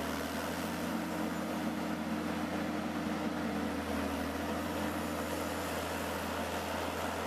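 Heavy machinery running steadily: an even low hum under a constant hiss, with no change in speed.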